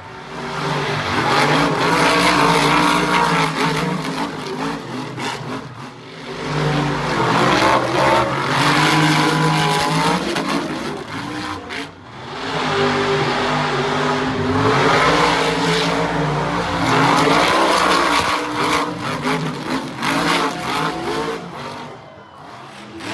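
Monster truck engine revving hard in long pulls, its pitch rising and falling, with brief drops in power about six and twelve seconds in and again near the end.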